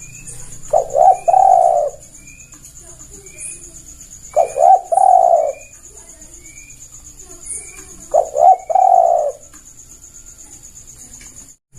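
Spotted dove (tekukur) cooing: three phrases, each of two short notes followed by a longer rolling coo, repeating about every four seconds. Under it are faint high chirps from small birds and a steady high-pitched insect-like tone.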